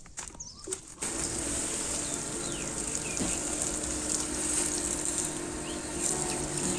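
Rural outdoor ambience: birds chirping briefly over a steady high hiss, coming in abruptly about a second in after a few soft clicks.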